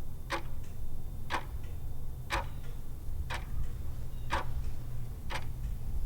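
Clock-ticking countdown sound effect, about one sharp tick a second with a fainter tick after each, over a steady low hum. It marks the answering time for a quiz question.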